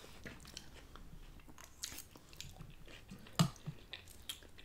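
Close-miked chewing of a forkful of poke bowl: soft, scattered wet mouth clicks and smacks, with one louder click about three and a half seconds in.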